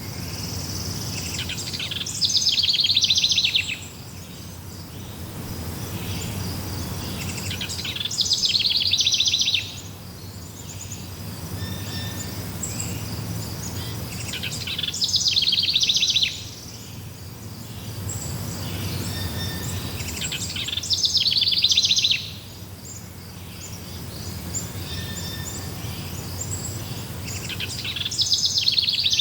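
A songbird singing a loud, rapid trilled phrase about every six seconds, each lasting a second or two and cutting off sharply, over a steady background of faint insect chirring.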